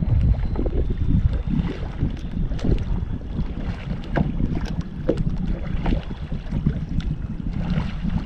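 Wind rumbling on the microphone over water lapping and splashing around a kayak, with scattered small splashes.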